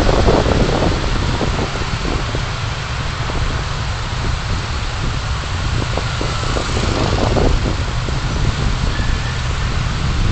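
A car driving, heard from inside: a steady low rumble of road and engine under a constant hiss, with a few brief swells of noise.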